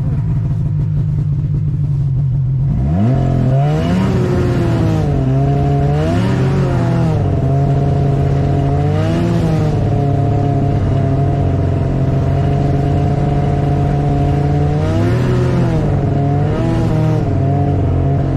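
Snowmobile engine running steadily at a low pitch, then revving up sharply about three seconds in. The revs rise and fall several times with the throttle, hold steady for a while, and climb and drop again near the end.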